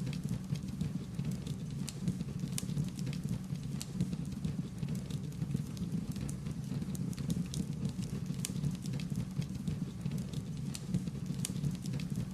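Wood fire crackling: frequent, irregular sharp snaps and pops over a steady low rumble.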